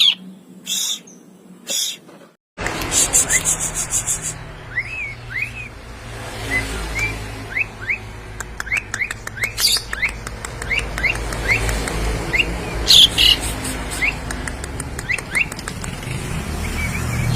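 Asian pied starling singing: a run of short, sharp chirps, then after a break about two and a half seconds in, many quick rising whistled notes mixed with harsh, buzzy bursts, over a steady low background noise. The bird is a mimic, copying the calls of other birds.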